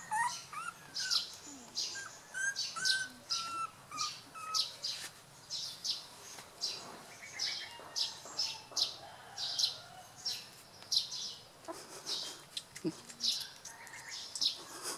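A bird chirping over and over, short high chirps about two a second, with a few short higher-pitched squeaks in the first five seconds.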